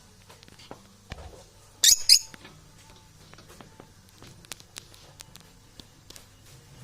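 Pet parrot giving two short, sharp, high-pitched squeaks close together about two seconds in, over faint scattered clicks and taps.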